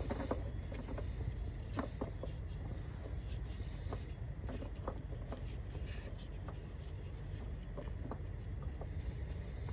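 A new spin-on diesel fuel filter being threaded onto its filter head by hand: scattered light scrapes and clicks, over a steady low rumble.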